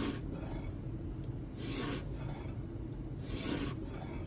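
600-grit stone on a guided knife-sharpening system scraping along the edge of a Kizer Domin knife's N690 steel blade, pushed in one direction only: three gritty strokes about a second and a half apart.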